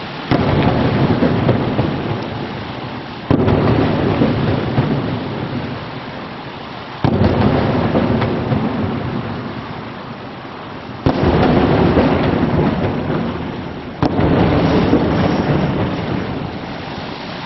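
Aerial firework shells bursting: five sudden booms a few seconds apart, each followed by a long rolling echo that fades over three to four seconds.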